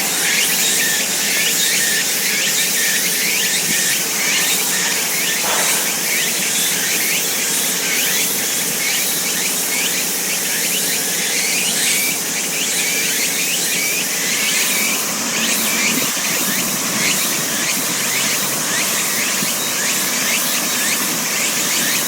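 Layered outdoor ambience: a dense, constant chorus of short, high chirps over a steady background rumble, built from forest-park sound mixed with traffic sound recorded at an overpass.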